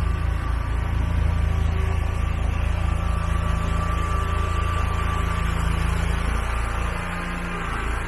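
Scag Windstorm stand-on leaf blower's engine running steadily at working speed, a loud low hum with a fan rush over it; it eases slightly about seven seconds in.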